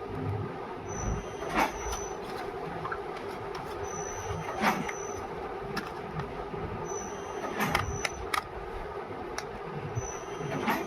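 Soap-making machinery running steadily, with a cycle repeating about every three seconds: a brief high hiss followed by a sharp clack.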